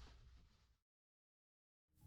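A faint noise dies away, then about a second of dead silence, and soft sustained music begins to fade in near the end.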